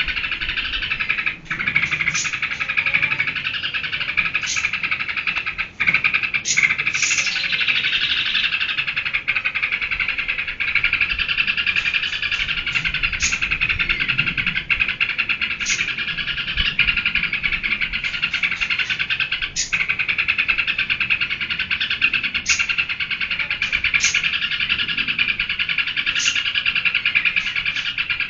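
Yellow-vented bulbul (trucukan) chattering without pause in excited, full song, a dense twittering with sharp high notes every second or two.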